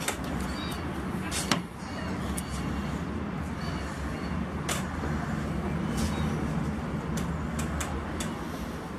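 Steady low rumble of a moving vehicle, with scattered sharp clicks and knocks, the loudest about one and a half seconds in.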